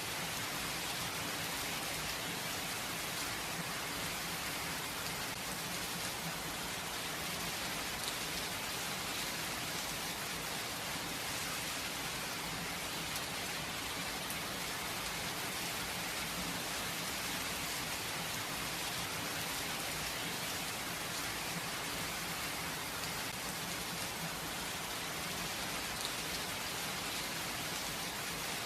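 Steady rain falling, an even hiss of many drops with occasional faint individual drop ticks and no thunder.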